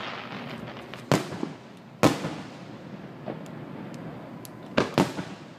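Aerial firework shells bursting: sharp bangs about a second in and at two seconds, then a quick double bang near the end, each trailing off into a rumbling wash between.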